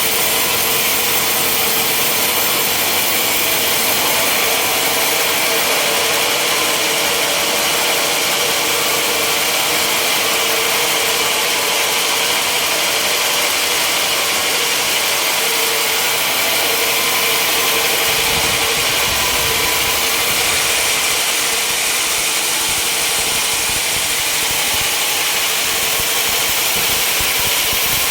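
Sawmill machinery running steadily: a loud, even mechanical noise with a strong hissing high end and no pauses. A deeper rumble comes in about two-thirds of the way through.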